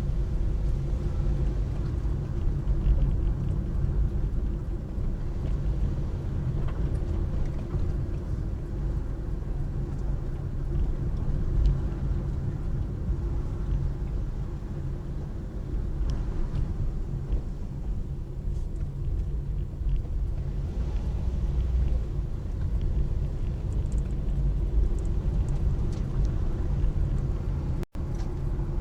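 Steady low rumble of a car's road and engine noise, with the sound cutting out for an instant near the end.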